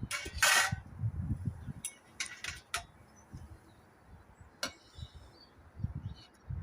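Tableware clinking and knocking during a meal: a short noisy clatter at the start, then a few separate sharp clinks and soft thumps.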